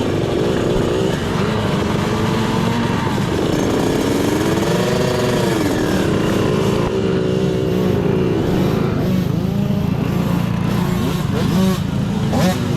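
Small off-road dirt-bike engines running and revving, their pitch rising and falling again and again as the throttle opens and closes.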